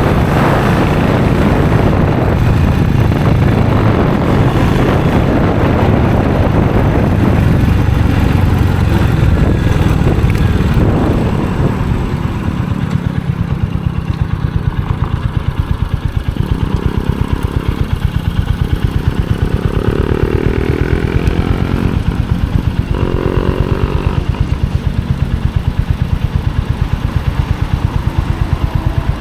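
Royal Enfield Hunter 350's single-cylinder engine and exhaust under way on the street, then easing off about eleven seconds in and settling into idle with an even, rapid pulse.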